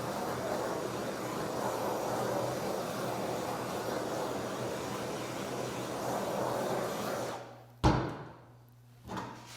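Handheld torch running with a steady rushing noise while it heats the adhesive-backed wood veneer sheet so it sticks. The torch shuts off about seven seconds in, and a sharp knock follows half a second later.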